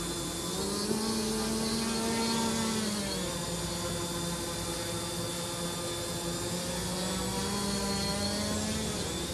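Multirotor drone's brushless motors and propellers humming in flight. The pitch rises about a second in, holds, drops near three seconds, then climbs again toward the end and falls back as the motors change speed.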